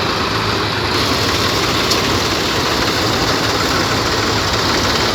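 Tractor diesel engine running steadily, a low even hum with no change in speed.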